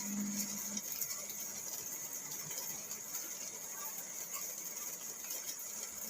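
Steady rain drumming on a car's roof and windows, heard from inside the cabin as an even hiss. A low hum runs underneath for about the first second and then stops.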